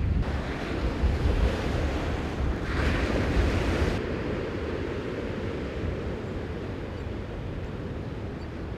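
Wind buffeting the microphone over the wash of waves on open water. A hissing surge swells about three seconds in, then eases into a steadier, softer rush.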